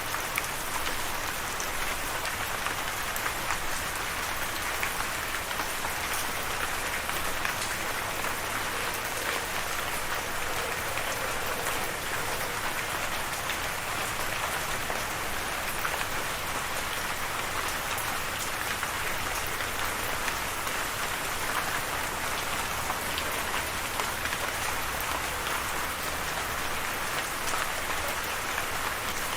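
Steady rain, with a dense patter of drops hitting a surface.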